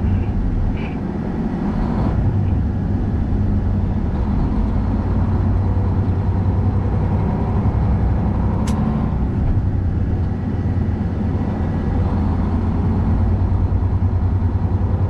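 Truck engine running steadily under way, a continuous low drone, with one sharp click about nine seconds in.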